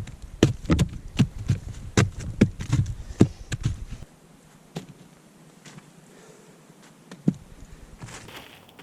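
Footsteps crunching in snow, a quick run of about two to three heavy steps a second that stops about four seconds in, followed by a couple of faint ticks.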